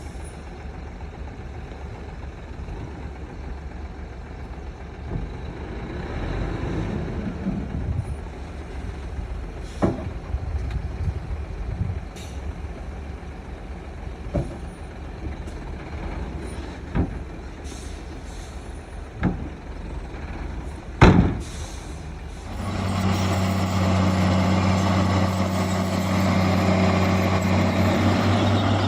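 Heavy diesel earthmoving machinery, a bulldozer and dump truck, running steadily with sharp knocks every two to three seconds. About 22 seconds in, an engine comes up to a louder, steady, higher-pitched note under load.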